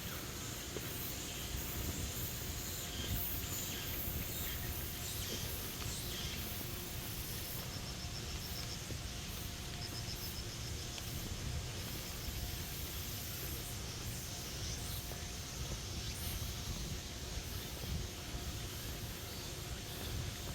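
Steady outdoor nature ambience: a constant high hiss of insects, with a short rapid high trill twice near the middle, over a low rumble on the microphone.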